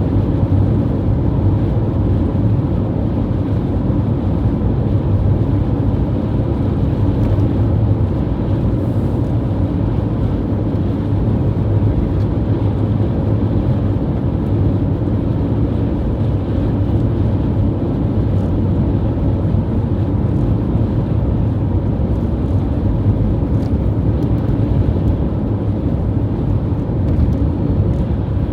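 Strong wind, a steady low rumble with no lulls.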